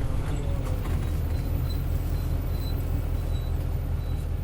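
Isuzu Cubic KC-LV280L bus's 8PE1 V8 diesel engine running steadily, heard from inside the passenger cabin, with faint rattles.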